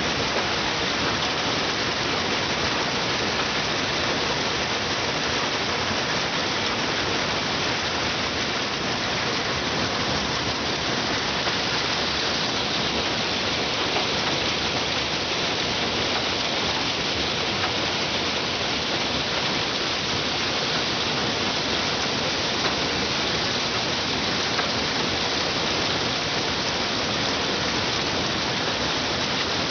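Combine harvester working in a sunflower crop: a steady, even rushing noise with no distinct engine note or separate knocks.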